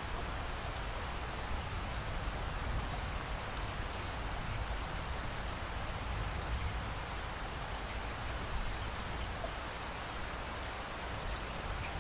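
Steady rainfall, a continuous even hiss of rain with a low rumble beneath and occasional faint drop ticks.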